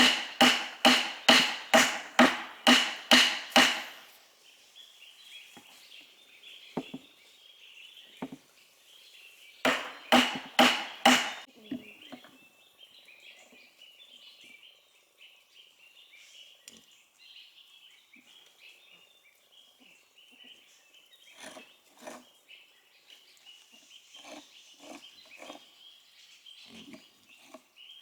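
Steady, evenly spaced strikes of a hand tool on wood, about two a second, for the first few seconds, then a shorter run of about five strikes about ten seconds in. Between and after the strikes there is a faint high chirring and a few scattered light knocks.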